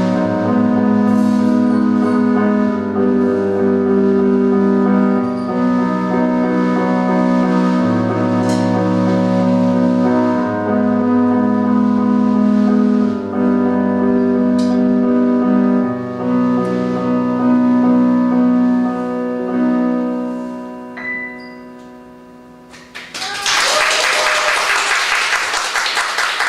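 Jazz trio of keyboard, upright-style bass and drums playing slow closing chords, with sustained keyboard chords over held bass notes and a few cymbal strokes; the last chord fades away and, a few seconds before the end, audience applause breaks out.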